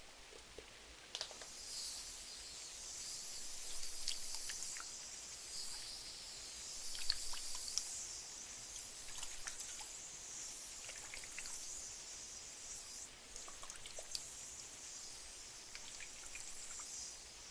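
Soft rain hissing steadily, setting in about a second in, with scattered small crackles and ticks from a wood fire.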